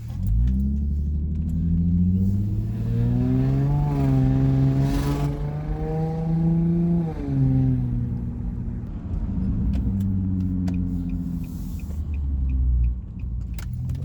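Car engine with a rumbling exhaust being driven off: the revs climb over the first few seconds, hold, drop a little after the middle, then settle into a steady low run.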